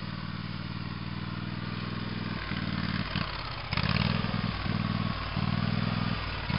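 Small tractor engine running as it drives closer. It runs steadily at first, then from about two and a half seconds in it surges up and down in short uneven bursts, as if the throttle is being worked.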